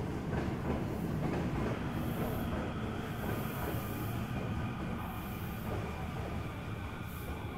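Interior running noise of a Hankyu 8300 series electric train slowing into a station: wheel and motor rumble fading gradually, with faint whining tones from its Toyo GTO VVVF inverter.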